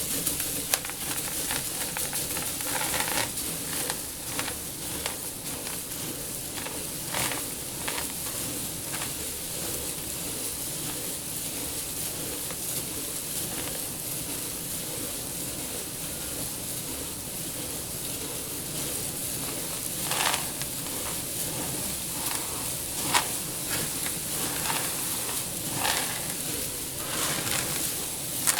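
Dry seeds rustling and shifting in a tank as they are stirred through, a steady grainy hiss with occasional louder crunchy swishes.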